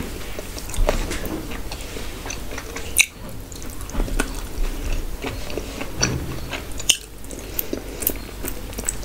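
A person chewing and biting mutton meat off the bone, with wet mouth smacks and many short sharp clicks, a louder one about three seconds in and another near seven seconds.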